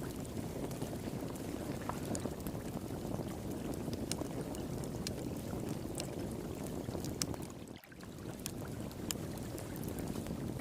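Flowing water rushing steadily, with scattered sharp crackles and pops from a wood fire. The sound briefly dips a little over two-thirds of the way through.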